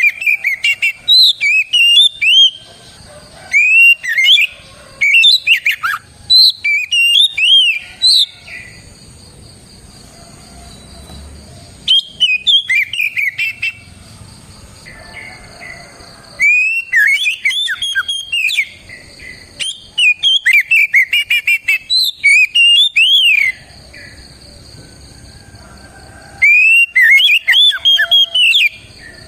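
Oriental magpie-robin (kacer) in full song: loud phrases of quick whistled notes sweeping up and down, sung in bursts of a few seconds with short pauses between them. A faint steady high tone runs behind the song.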